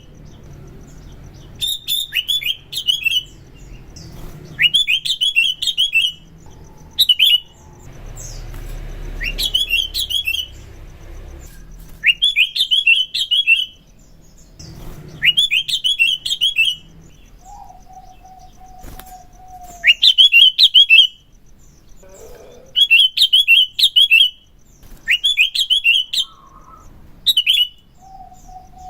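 Sooty-headed bulbul (kutilang) singing vigorously: short, loud, bubbly phrases of quick chirping notes, repeated every one to three seconds with brief pauses between.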